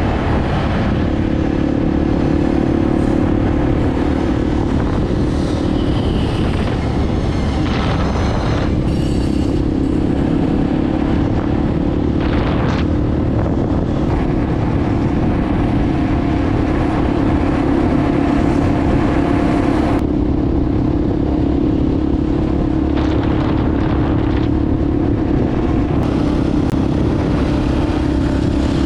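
Motorcycle engine running at a steady pitch while riding, with a few brief knocks partway through.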